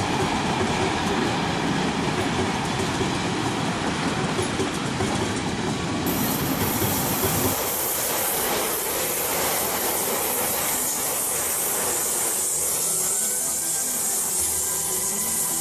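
Passenger trains passing on the rails: first a train of passenger coaches rolling by with a heavy low rumble, then, after a cut partway through, a ČD InterPanter electric multiple unit passing close with less rumble and more hiss of wheels on rail.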